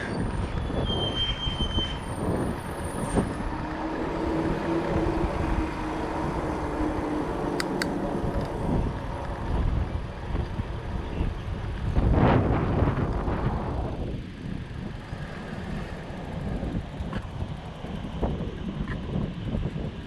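Riding noise from a fat bike on 4.4-inch Jumbo Jim tyres: wind buffeting the microphone over a steady rumble and hum of tyres rolling. About twelve seconds in, a louder rush swells for a second or two and then eases off.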